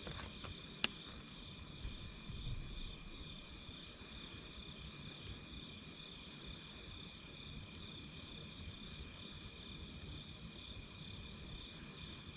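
Insects, crickets by their sound, trilling steadily in a high, rapidly pulsing chirr over a low rumble of the campfire. One sharp crackle from the fire pops just under a second in, with a few faint crackles around it.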